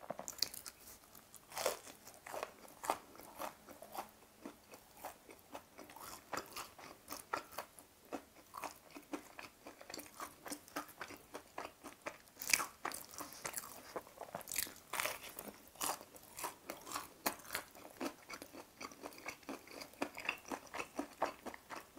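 Crisp, thin fried chicken cutlet (Lotteria G-Pie) being bitten and chewed: a run of irregular crunches, a few of them louder than the rest.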